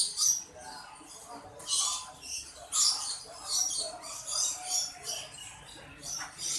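Many small caged songbirds chirping and twittering at once: a dense run of short, high-pitched calls.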